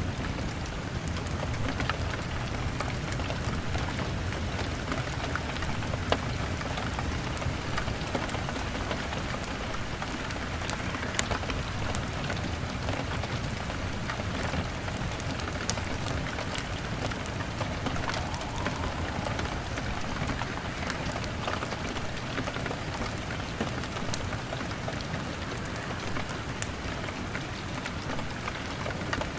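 Steady rain on a window pane with a wood fire crackling, small clicks throughout and a few sharper pops standing out.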